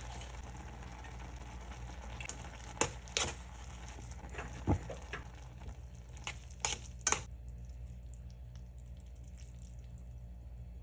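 Cooking in a pan: a steady sizzle with several sharp clinks of a utensil against the pan, clustered in the middle, then the sizzle drops away about seven seconds in.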